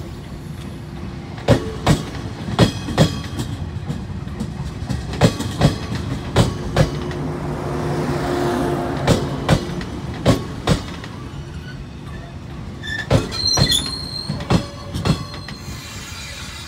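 JR 115 series electric multiple unit pulling out past the platform: wheels clicking over the rail joints in pairs over a steady running rumble and motor hum, with a brief high wheel squeal near the end.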